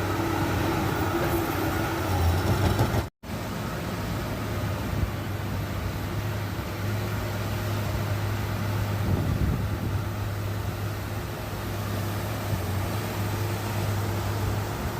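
Bulldozer's diesel engine running steadily, cutting out to silence for a split second about three seconds in.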